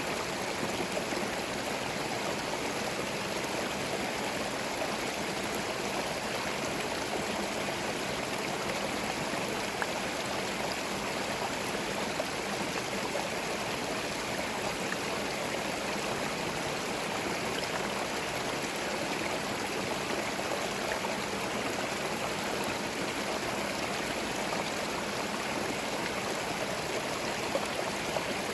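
Small forest stream flowing over stones, a steady babbling and gurgling of water with no breaks.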